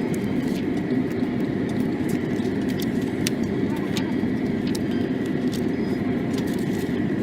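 Steady cabin rumble inside a Boeing 737 MAX 8, with a faint constant whine and scattered light clicks and knocks.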